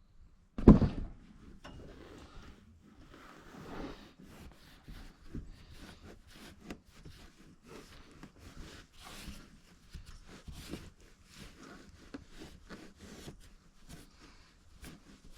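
Chainsaw being wiped down and handled: one loud thump just under a second in, then a long irregular run of light rubbing, scraping and clicking.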